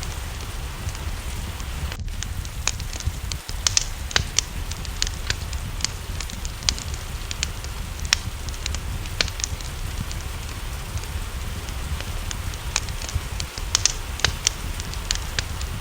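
Wood fire crackling, with frequent irregular sharp pops over a steady low rumble and a soft hiss of rain.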